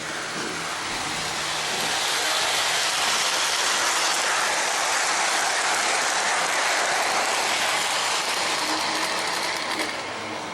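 O-gauge model train rolling along its track, a steady rushing clatter of wheels on rail that grows louder about a second in as it comes close, holds, and falls away near the end as it passes.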